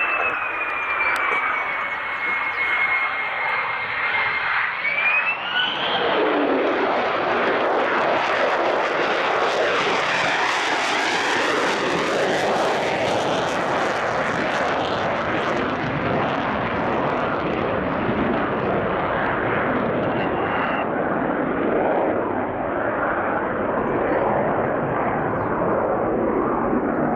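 Fighter jet engine: a high turbine whine that dips in pitch and then rises about five seconds in, followed by a loud jet roar that is fullest around the middle and carries on.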